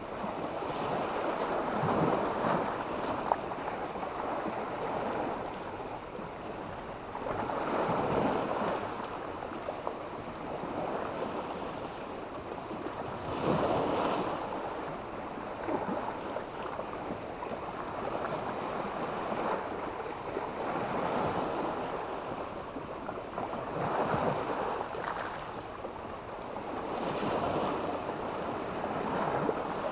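Sea waves breaking and washing up a beach of stones and sand. The surf swells and falls back every five to six seconds.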